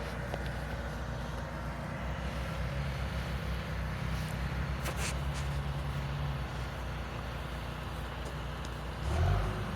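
A large engine running steadily with a low drone, with a few light clicks about halfway through and a short heavier thump near the end.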